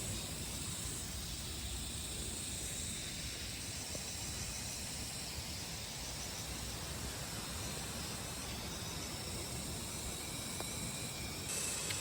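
Steady rushing hiss of a small waterfall, its flow running above average.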